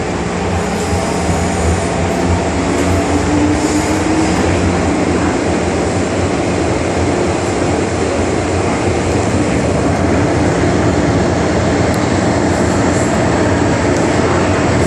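MTR Island Line metro train running between stations, heard from inside the carriage: a steady wheel and track rumble, with the traction motors' whine rising in pitch in the first few seconds as the train picks up speed.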